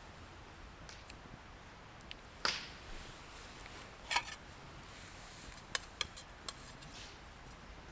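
A few scattered sharp clicks and knocks over a faint steady hiss: one about two and a half seconds in, a quick pair near the middle, and three more close together later.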